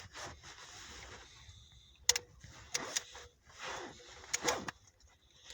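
A few sharp metallic clicks and knocks with short stretches of scraping, from hand work on a Ford Scorpio 2.0 OHC engine being turned toward dead centre for a piston check.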